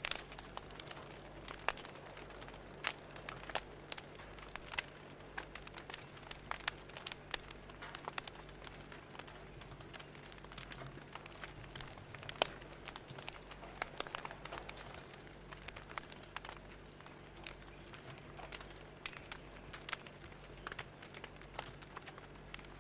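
Fire crackling: irregular sharp pops and snaps, a few each second, over a soft steady hiss.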